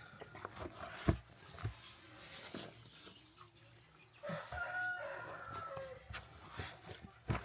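A rooster crows once: a single held call starting about four seconds in that drops in pitch at its end. A few sharp knocks fall around it, the loudest near the end.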